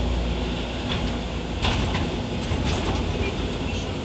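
Scania OmniCity city bus running, heard from inside: a steady diesel engine drone with road noise, and a few short rattles and knocks from the body and fittings.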